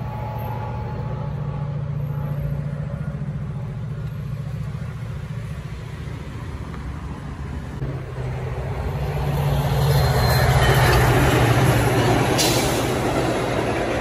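Metra commuter train with a diesel locomotive approaching and passing: a steady low engine hum, with the train's rumble swelling louder from about eight seconds in. A short hiss near the end.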